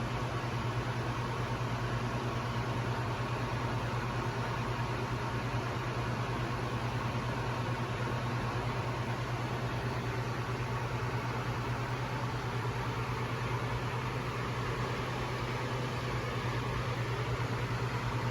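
Steady in-flight cockpit noise of a jet aircraft: an even rush of airflow with a constant low hum.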